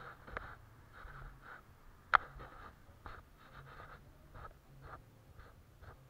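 Short scratchy strokes of a paintbrush on paper, coming unevenly a few times a second, with one sharp tap about two seconds in.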